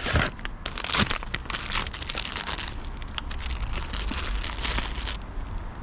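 Packaging crinkling and tearing as a delivered parcel is unwrapped by hand, a dense run of rustles and crackles that stops about five seconds in.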